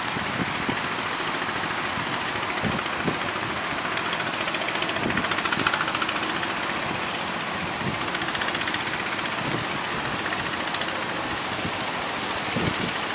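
A boat engine running under a steady wash of surf noise, with a few faint low thumps.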